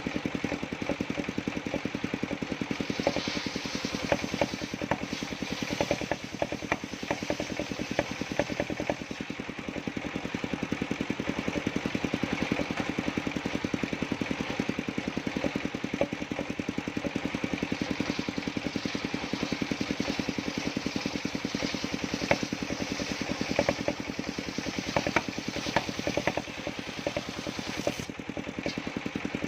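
Sawmill's engine running steadily at an even pace, with scattered sharp knocks and clicks over it.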